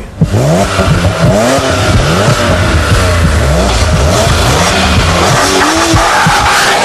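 Car engine revving hard, its pitch sweeping upward over and over, about eight times, over a steady low drone.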